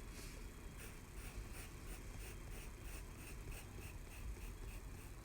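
Pencil strokes on paper, faint and scratchy, repeated a few times a second as lines are drawn.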